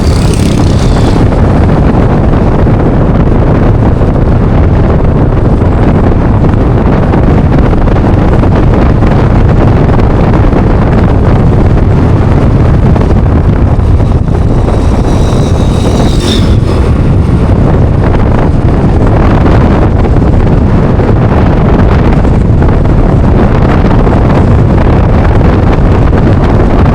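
Wind rushing over a motorcycle rider's microphone while riding, a steady loud rumble with the Yamaha NMAX scooter's running and road noise underneath. A brief high-pitched squeal cuts through about 16 seconds in.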